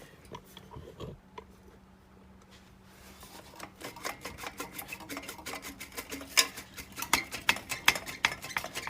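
Steel exhaust head pipes on a Harley-Davidson Twin Cam clinking and scraping against each other as they are worked together by hand. A few light clicks at first, then from about three seconds in a quick, uneven run of metallic taps that grows busier and louder.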